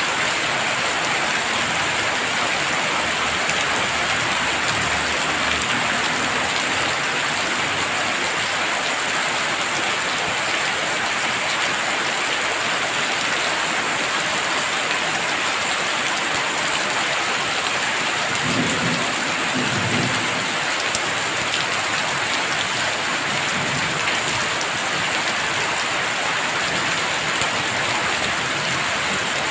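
Heavy rain falling steadily. About two-thirds of the way through, a low rumble of distant thunder lasts a couple of seconds.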